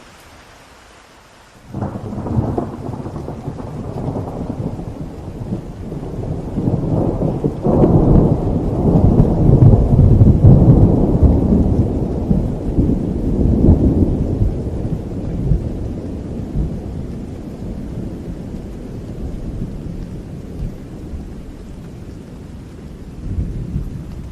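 Thunder over steady rain: a sudden clap about two seconds in, then a deep rumble that swells again and slowly rolls away.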